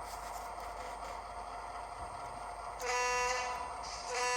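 Model-railroad sound decoder's diesel locomotive horn, played through a small Bluetooth speaker: a short blast near the end of the third second, then a second blast starting just before the end, over the steady idling prime-mover sound.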